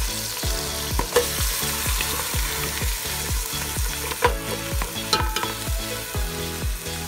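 Lamb pieces frying and sizzling in a metal pot while a spatula stirs them, with a few sharp clicks of the utensil against the pot. Background music with a steady beat plays underneath.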